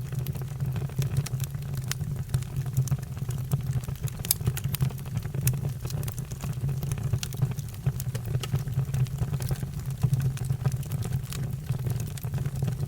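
Fire burning, crackling with frequent sharp pops over a steady low rumble.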